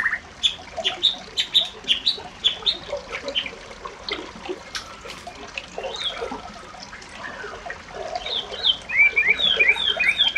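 Birds calling, with many short chirps throughout and a quick run of repeated rising notes near the end.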